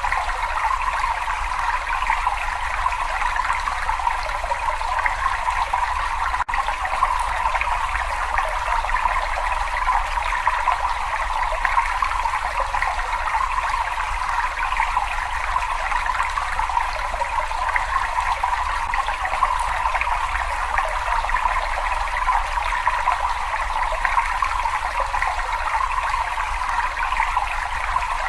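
Cave water trickling and splashing steadily in an even, unbroken stream, with a low rumble underneath. There is a split-second dropout about six seconds in.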